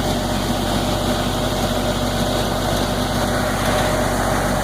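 Zoo tram's engine running at a steady drone, with a constant low hum.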